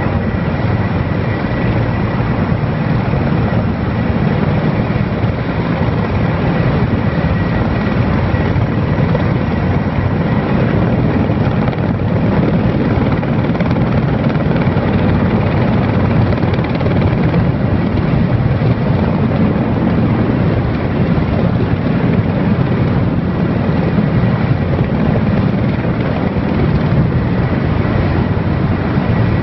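Erickson Air-Crane (Sikorsky S-64 Skycrane) heavy-lift helicopter running loud and steady, its rotor and turbines making an even roar with a faint high whine held throughout.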